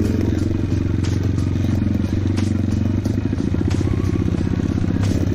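Trail motorcycle engine running steadily at a constant level, with a few short clattering knocks from the bike on rough ground.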